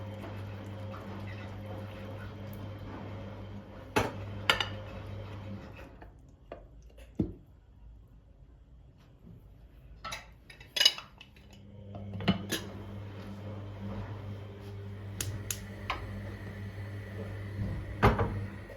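Dishes and cutlery clinking in a kitchen: about nine separate knocks and clinks of metal and crockery. A steady low hum sounds underneath, fading out for a few seconds in the middle before it returns.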